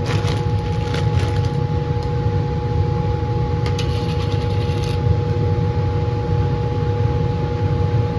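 Laminar flow hood's blower fan running steadily: a low rumble with a steady hum on two tones. A few brief rustles and clicks of handling come about a second in and again around four to five seconds in.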